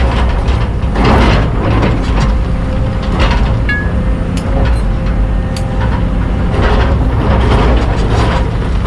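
Hydraulic excavator's diesel engine running steadily, with scattered metallic clanks and knocks from the working machine.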